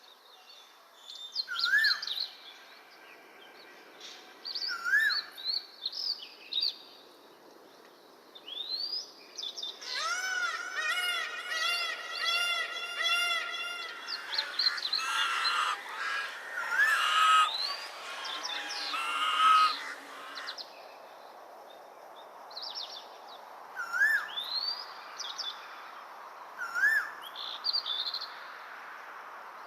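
Several birds calling and chirping. A short rising-falling call repeats every few seconds, and about a third of the way in there is a few-second run of rapid, rich repeated calls.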